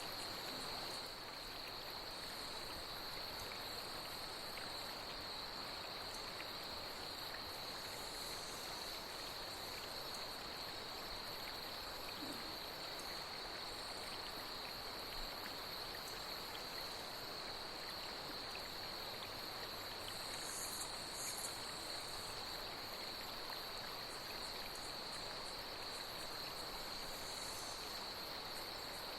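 A steady, high chorus of night insects over the even rush of a flowing stream, with a couple of brief higher chirps about two-thirds of the way through.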